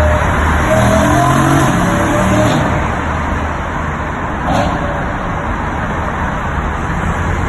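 BMW M3 E92's V8 engine running, its note rising briefly in the first couple of seconds and then settling, over a steady rush of noise.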